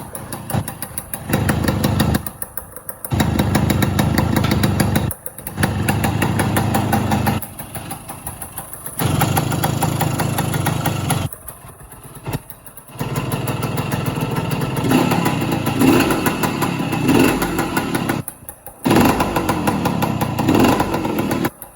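Engine running soon after a cold start, idling in stretches that break off abruptly several times, with a few revs rising and falling in pitch in the second half.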